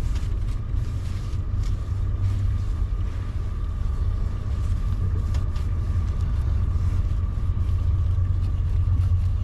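A motor running steadily with a low rumble and a constant thin whine, with faint scattered clicks.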